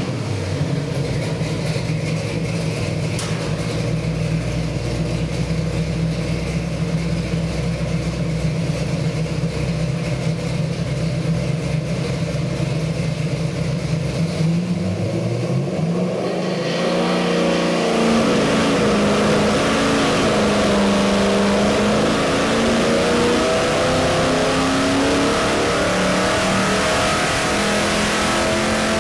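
Chevy 350 small-block V8 with a hydraulic roller cam and Edelbrock 750 carburettor, running steadily at one engine speed for about fourteen seconds. After a brief change it climbs steadily and louder in rpm through the rest.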